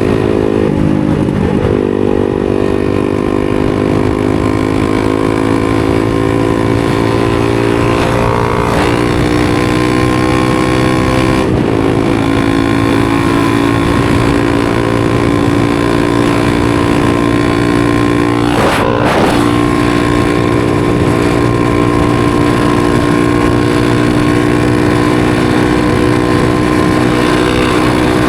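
250cc supermoto motorcycle engine running under way, holding a fairly steady note that creeps slowly in pitch, with a few brief breaks where the note shifts.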